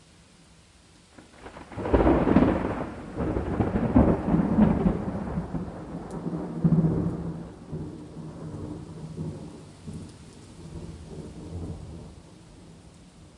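A thunderclap breaks about two seconds in over faint, steady rain, crackling loudly for several seconds, then rolling off into a long, fading rumble.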